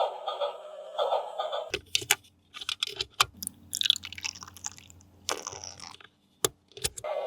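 A short stretch of electronic, music-like toy sound, then sharp clicks and crinkling noise over a faint low hum, typical of a plastic toy and its packaging being handled.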